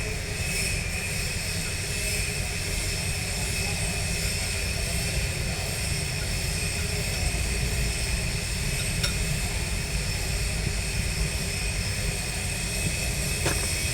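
Heavy diesel machinery engine running steadily, a deep rumble with a steady high whine over it. A couple of faint metallic ticks come near the middle and near the end.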